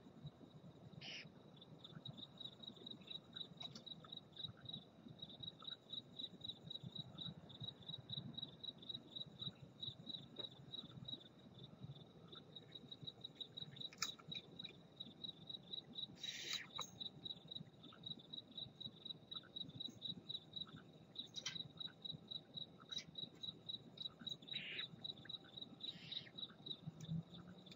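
A cricket chirping in a steady, even rhythm throughout. A few short, raspy barn owl hisses break in: one near the start and four more in the second half.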